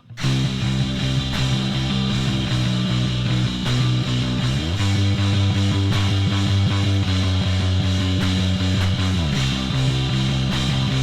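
Rock band playing a loud instrumental passage with guitars and drums, coming in abruptly after a brief break; the held chords change about every four to five seconds.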